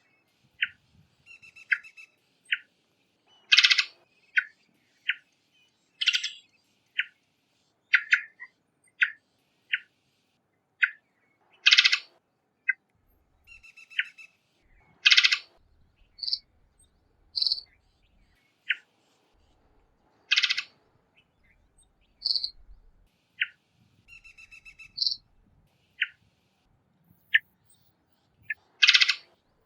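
Varied thrush calling: a loose series of short call notes about a second apart, broken every few seconds by a louder, harsher note.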